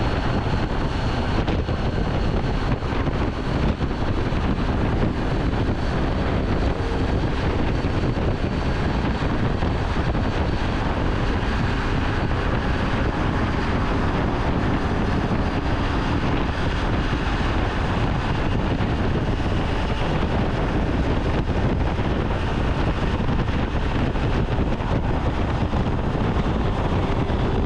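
Steady rush of wind over a helmet or bike-mounted camera microphone, with the engine and road noise of a 2017 Triumph Tiger 800 motorcycle riding at freeway speed underneath.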